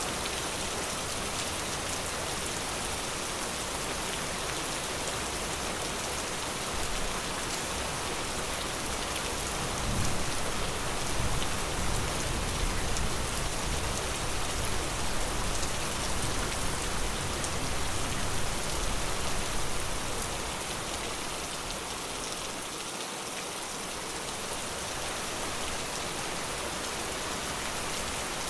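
Steady forest rain falling. It swells louder, with a deeper low rumble, for about ten seconds partway through, then eases back.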